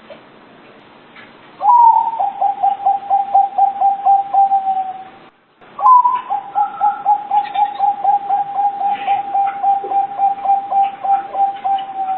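Zebra dove cooing: two long runs of quick, evenly paced coo notes, each run opening with a slightly higher note, broken by a short gap about five seconds in.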